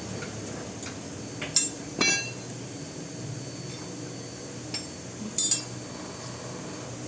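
Metal tools and parts clinking against one another in a handful of sharp clinks, a few of them ringing briefly, about one and a half to two seconds in and again about five seconds in, over a steady low hum.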